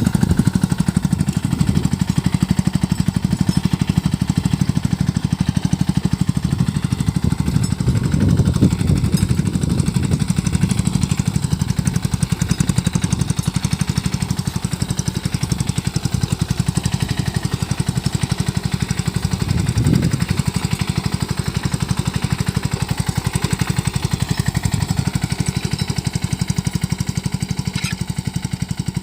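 Engine of a Sanedo three-wheeled mini tractor running steadily in rapid, even beats while sowing mustard. It swells briefly about eight seconds in and again about twenty seconds in.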